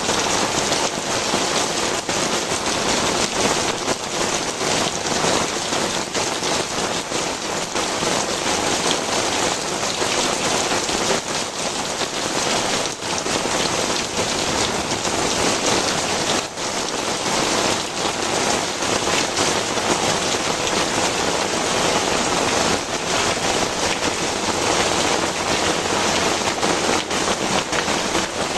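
Heavy rain pouring steadily, a dense hiss full of drops striking surfaces.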